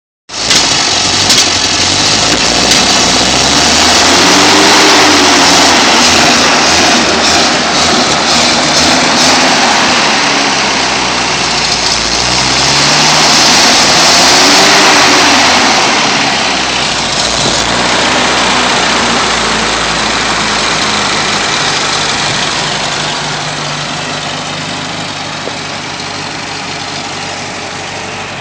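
Datsun car engine running with a misfire, revved up and back down twice, then settling to a steadier, quieter idle.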